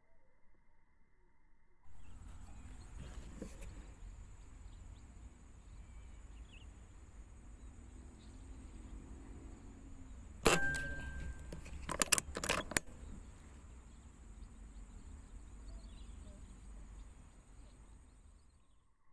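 An air rifle fires once, a single sharp crack with a brief ring, and about a second and a half later the bolt is worked in a few quick metal clicks.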